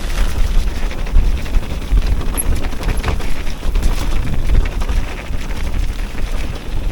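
Wind buffeting the microphone of a camera on a moving electric mountain bike: a heavy, uneven low rumble that swells and drops with the gusts, with a hiss of rushing air above it.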